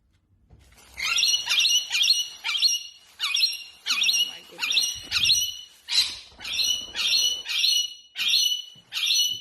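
A pet bird calling in a steady series of short, slightly falling chirps, about two a second, starting about a second in.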